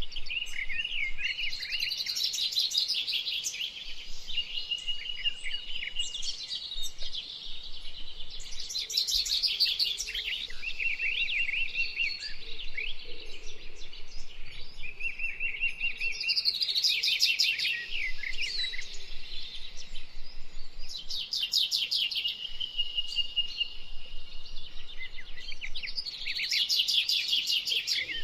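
Red-winged blackbirds singing and calling together, a buzzy trilled song recurring every four to five seconds over steady chirps and whistles.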